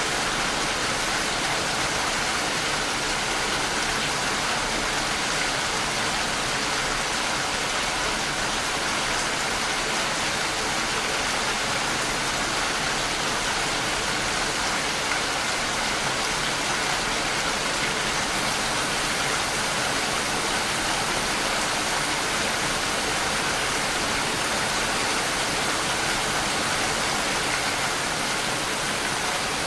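Steady, even rain: a dense hiss of falling rain with no individual drops standing out.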